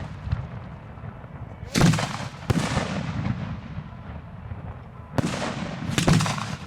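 Fireworks shells going off at close range: four loud bangs in two pairs, each trailing off with a rumbling echo.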